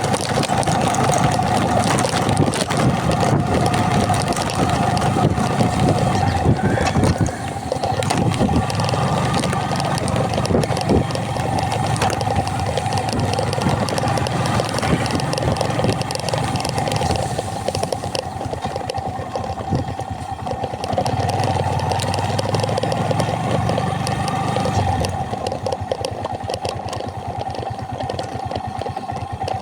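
A vehicle engine running steadily while under way, with a steady hum and a dense patter of small knocks and rattles.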